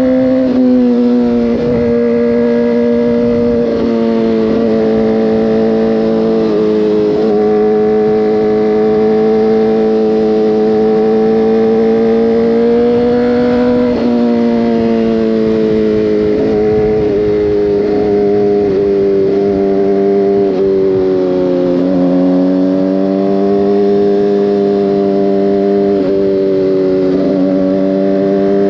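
Motorcycle engine running at steady cruising revs. The revs dip briefly and climb back several times with the throttle and gear changes.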